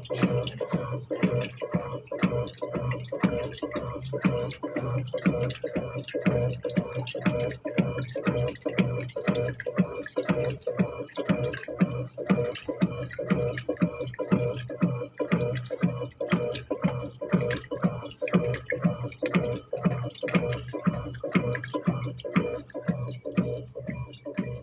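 Electrolux Turbo Economia top-load washing machine agitating on its turbo setting: the motor hums steadily while the agitator churns the water and the heavy duvet load back and forth in quick, even strokes, about three a second.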